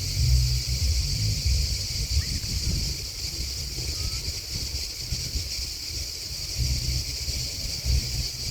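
Steady high-pitched chorus of singing insects, unbroken throughout. Wind rumbles on the microphone underneath, gusting most at the start and again near the end.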